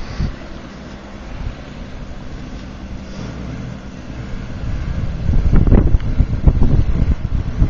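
Wind buffeting the microphone over a steady low rumble, turning into strong, irregular gusts from about five seconds in.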